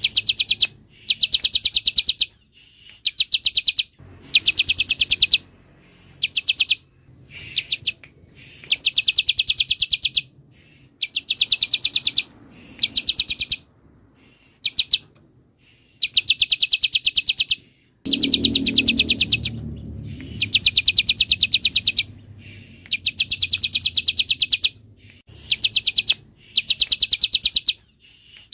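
Bar-winged prinia (ciblek) giving fast, buzzing, chattering trills in repeated bursts of about half a second to a second and a half, with short pauses between them. There is a brief low rumble underneath about two-thirds of the way through.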